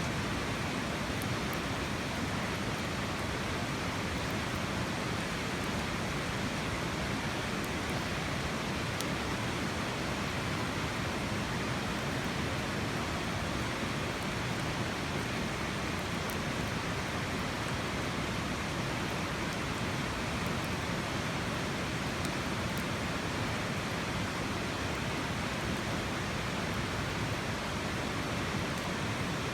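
Steady rush of flowing water, even and unbroken, with a few faint high ticks now and then.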